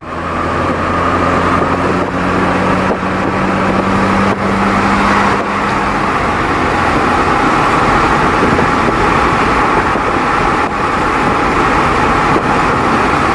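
Wind and road noise inside a car cruising at about 60 mph with the windows down, over a faint low exhaust grumble from a muffler-deleted VW Mk6 GTI's 2.0-litre turbocharged four-cylinder. The low engine tones fade out about halfway through, leaving mostly wind noise.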